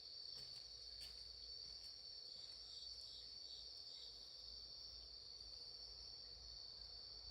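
Crickets chirping in a continuous, even high trill, with a few faint crackles from a wood campfire.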